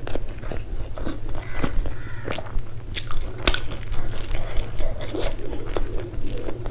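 Close-up mouth sounds of a person eating with her hand: wet chewing with irregular crunches and clicks, one sharp crunch about three and a half seconds in. A steady low hum sits underneath.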